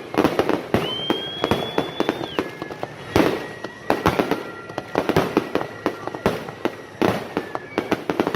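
Fireworks display: rapid, irregular bangs and crackling from bursting shells, with heavier booms about three seconds in and again near the end. High whistling tones sound over the bangs, one about a second in and a longer, steady one through the middle.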